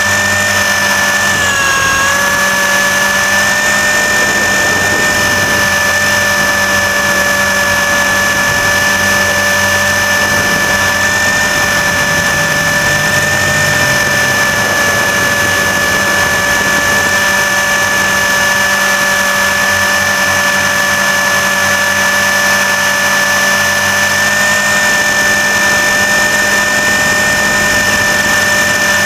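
RC helicopter's motor and rotor heard from a camera mounted on the helicopter: a loud, steady high whine that dips briefly in pitch about two seconds in.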